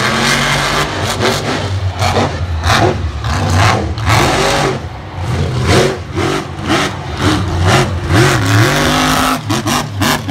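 Monster truck engine revving hard and over and over during a freestyle run, its pitch rising and falling with the throttle.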